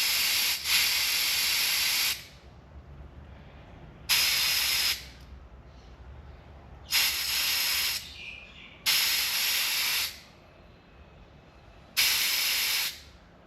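Air hissing out of a car tyre's valve as it is let down from 40 psi to about 35 psi, in five separate releases. The first runs about two seconds in, then four bursts of about a second each start and stop sharply.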